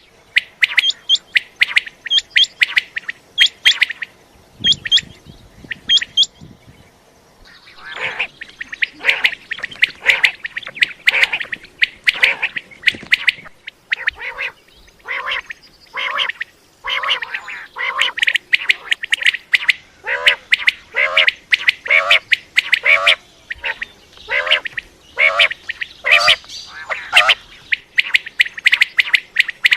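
Common quail calling: quick groups of short, sharp notes, sparse for the first few seconds, then a dense, nearly unbroken series with lower notes mixed in from about eight seconds.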